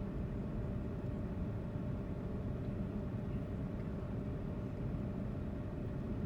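Car engine running steadily at low revs, a constant low rumble heard from inside the cabin.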